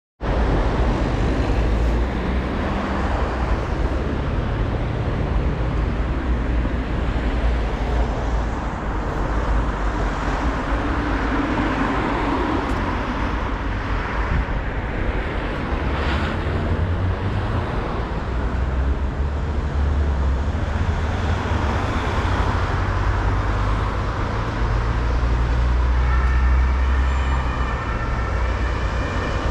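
City road traffic: cars passing with a steady low engine rumble and tyre noise, and a brief high tone with several overtones near the end.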